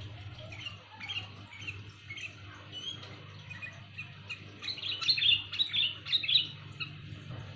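Sooty-headed bulbul (kutilang) calling in short, clear chirps, with a louder run of rapid calls from about five to six and a half seconds in.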